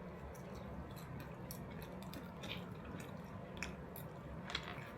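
Faint wet chewing and mouth clicks of a man eating enchiladas, a few scattered smacks over a low steady background hum.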